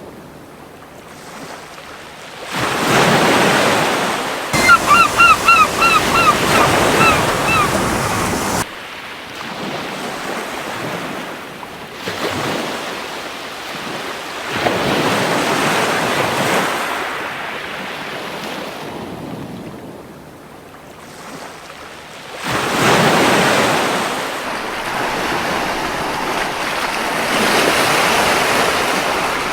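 Surf washing onto a beach, swelling and drawing back in several waves. Between about 5 and 8 seconds in, a gull gives a quick series of about nine short, repeated calls.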